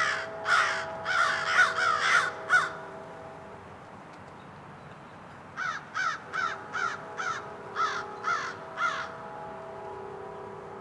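Crow cawing in two quick runs of harsh caws, the first run of about seven caws and the second of about eight or nine after a pause of a few seconds. A faint steady hum of several held tones sits underneath.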